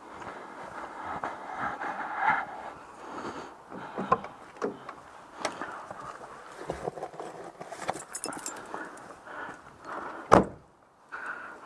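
Handling noises with scattered clicks and knocks, a jingle of keys about eight seconds in, then a door shutting with a heavy thud near the end.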